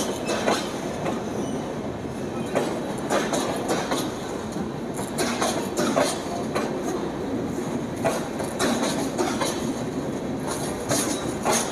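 Indian Railways passenger coaches rolling past close by: a steady rumble of wheels on rails, with groups of sharp clacks every few seconds as each bogie crosses the rail joints.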